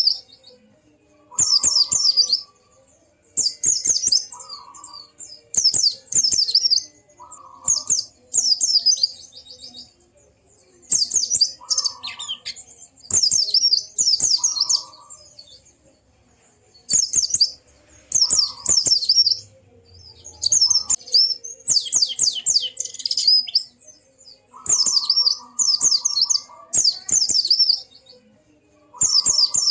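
White-eye (pleci) singing in the wild 'ngalas' style: rapid, high, twittering phrases about a second long, repeated every couple of seconds with short pauses between. Shorter, lower notes come with several of the phrases.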